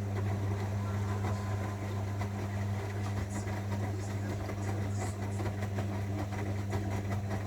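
Zanussi washing machine running with a steady low motor hum and a fine patter of clicks over it.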